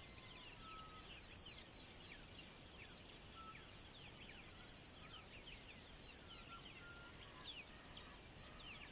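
Faint outdoor birdsong: many small birds chirping at once in quick, high, falling notes, with a sharper, louder, very high call three times, about every two seconds.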